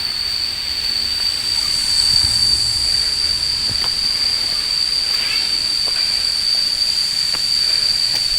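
Steady, high-pitched insect drone, one unbroken whine, over a steady hiss.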